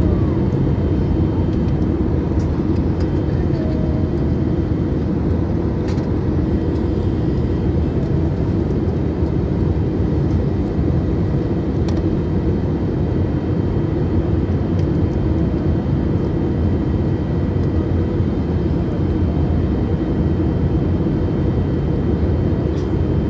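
Steady cabin noise inside an Airbus A320neo airliner with CFM LEAP-1A engines: a dense, even low rumble of engines and airflow, with a faint steady high whine above it and a few faint ticks.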